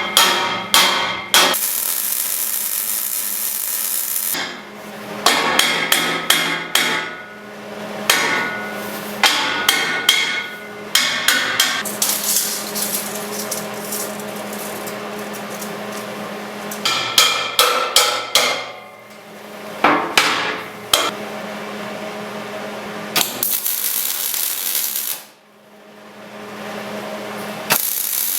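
Hammer blows on steel in quick runs of several ringing strikes, alternating with stretches of a few seconds of steady MIG welding crackle.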